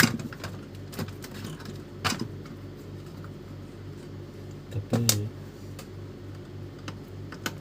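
Scattered sharp clicks and taps of printer parts being handled, over a steady low hum.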